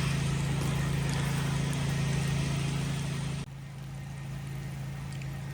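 A steady low engine-like hum over an even hiss, the hiss dropping suddenly about three and a half seconds in while the hum carries on a little quieter.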